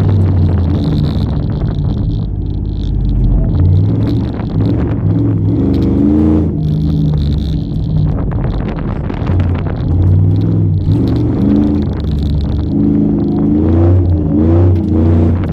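Chevrolet Silverado pickup engine revving up and easing off again and again as the truck is driven hard through an autocross course, its pitch rising and falling with the throttle.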